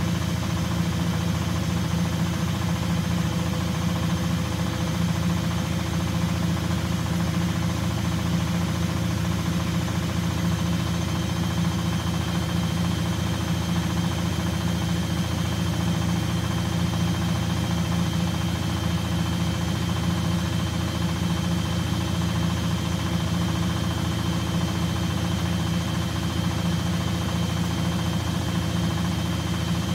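Washing machine running on a bedding wash, a steady low hum with a thin high whine above it that never changes.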